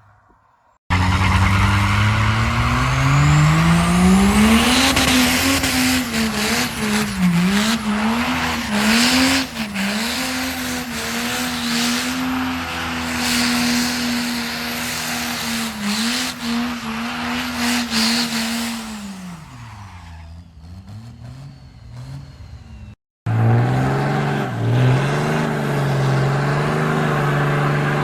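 Diesel pickup truck doing a burnout: the engine revs up and holds high, wavering revs while the tyres spin and squeal, then the revs fall away. After a cut, a diesel engine runs steadily.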